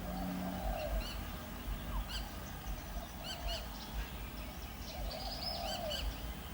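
African grey parrot calling: a low, arched hoot-like whistle at the start and again about five seconds in, with short high chirps repeating in between.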